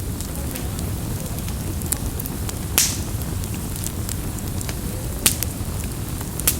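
Campfire burning: a steady low rumble and hiss of the flames with small crackles throughout, and sharp pops of burning wood, the loudest about three seconds in, then two more in the last second and a half.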